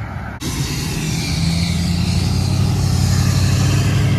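A car engine running loud and low as the car drives off, starting abruptly about half a second in and building in level over the next couple of seconds.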